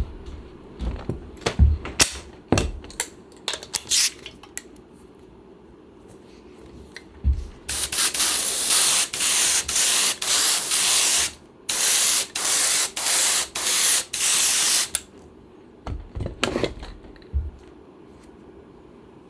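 Spray adhesive hissing from a spray gun: one long spray of a few seconds, then about five short bursts in quick succession, as is typical when glue is laid on foam cushioning for a chair seat. Sharp clicks and knocks from handling the work come before and after the spraying.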